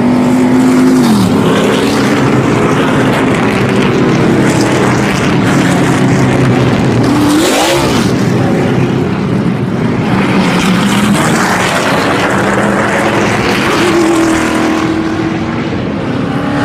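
NASCAR Truck Series race trucks' V8 engines running at speed, a loud continuous drone of a pack on track. Trucks pass close by, their engine pitch falling about a second in and rising then falling again around seven to eight seconds in.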